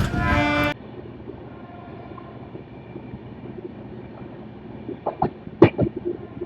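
Train horn sounding over the train's running noise, cut off abruptly under a second in. After it, a quieter low steady rumble, with a few short sharp sounds about five seconds in.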